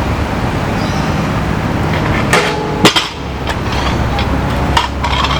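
A few sharp metal clanks and knocks, one with a brief metallic ring and the loudest about three seconds in, over a steady low rumble; typical of a stunt scooter knocking and landing on concrete.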